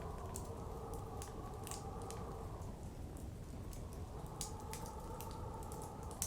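Wood fire crackling, with irregular sharp pops and snaps, over a steady blizzard wind whose whistling eases about halfway through and rises again a second later.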